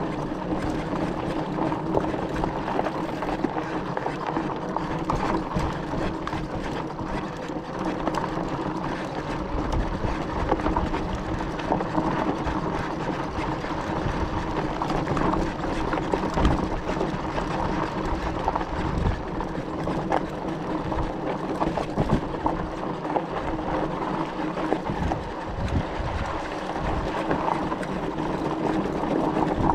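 E-bike riding over a rough dirt road: a steady motor hum under continuous tyre and road noise, with frequent short knocks and rattles from the bumps.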